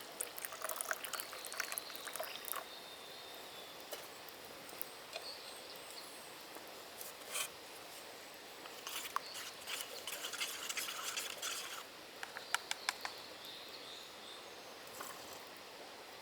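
Scattered small clicks and rustles of things being handled, over the steady rush of a nearby stream, with a few short high bird chirps. The clicks come in clusters, early on and again for a few seconds past the middle.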